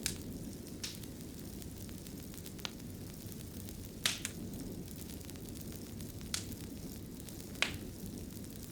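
Wood fire in a fireplace burning with a steady low rumble, broken by sharp crackles and pops every second or two, the loudest about four seconds in and near the end.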